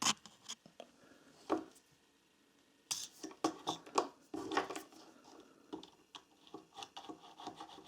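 Small hard parts being handled by hand: irregular faint clicks, taps and short rubbing scrapes, a few at first and then busier from about three seconds in.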